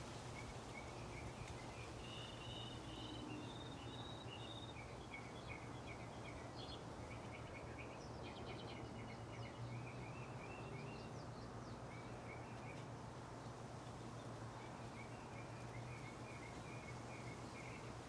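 Small songbirds chirping and twittering in runs of quick short notes, with a pause a little past the middle, over a steady low hum and faint background noise.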